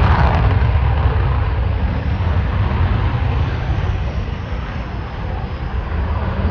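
Jet noise from F-35 Lightning fighters on the runway for takeoff: a loud, steady rumble heaviest in the low end. It eases off gradually past the middle, then builds again near the end.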